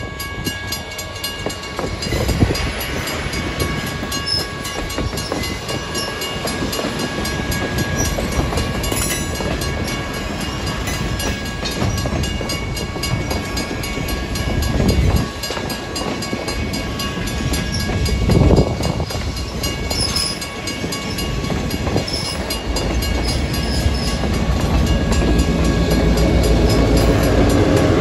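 A freight train rolling through a grade crossing, its wheels rumbling and clacking over the rails, with the crossing's warning bell ringing steadily. There are two heavy clunks, about halfway through and a few seconds later. Near the end a deeper engine rumble builds as the SERA 100 locomotive reaches the crossing.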